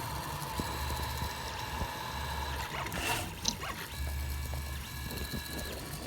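A 3D printer running mid-print: its stepper motors give steady high tones, with a low hum that starts and stops in stretches of about a second.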